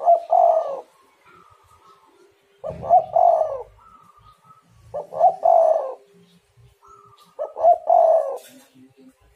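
Spotted dove (tekukur) cooing: four loud two-part coo phrases, about two and a half seconds apart, with softer notes between them.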